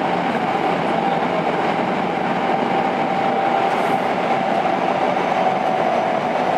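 Tokyo Metro 02 series subway train with IGBT inverter drive, running between stations and heard from inside the car: steady wheel and running noise under a steady whine that drops slightly in pitch near the end.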